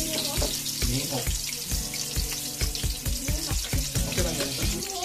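Chopped garlic and onion sizzling in hot oil in an aluminium wok, a steady hiss, with background music that has a regular beat.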